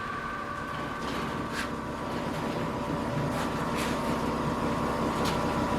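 2008 Kia Sportage engine idling steadily, with short hissy puffs every second or so. The puffs come from an exhaust leak, which the owner traces to the flex pipe.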